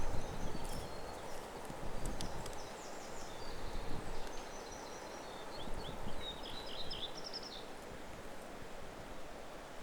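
Spring woodland ambience: a small songbird singing a series of quick, high chirps and trills that stop about three-quarters of the way through, over a steady low rustle of wind in the trees.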